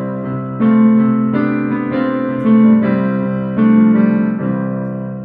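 A few sustained chords played on a piano or keyboard, with the notes changing about every second and the last chord fading out near the end. It is played through a Zoom call with Original Sound switched on.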